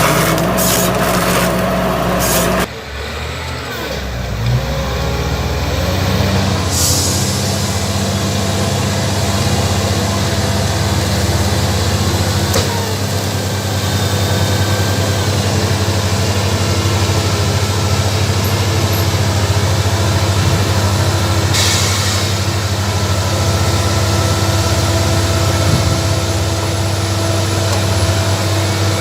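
Heavy diesel engine of logging machinery running steadily, with two short hisses of released air, one a few seconds in and one about two-thirds through. A different machine sound with clicks cuts off suddenly near the start.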